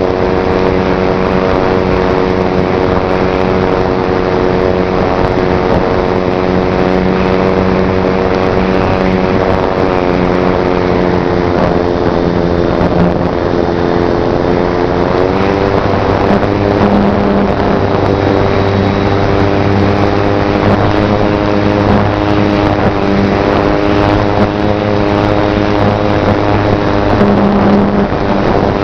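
Slow Stick electric RC plane's BL 2817 brushless motor and propeller running with a steady droning whine. Its pitch drops about ten seconds in and rises again a few seconds later as the throttle changes, over wind noise.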